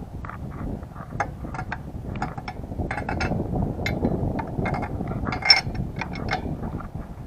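Irregular metallic clicks and clinks of hand tools at work on a motorcycle's spark plugs, in the manner of a ratchet plug wrench, over a low background rumble. The sharpest click comes about five and a half seconds in.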